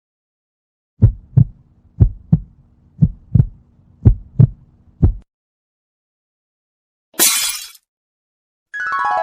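Heartbeat sound effect: four lub-dub double thumps about a second apart, then one more single thump. Near the end comes a brief hiss, then pitched notes begin.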